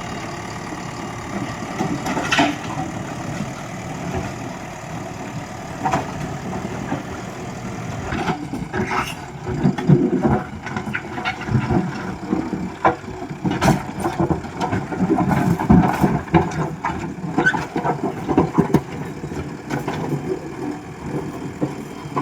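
JCB 3DX backhoe loader's diesel engine running, its level swelling and easing, with scattered sharp clanks and knocks throughout.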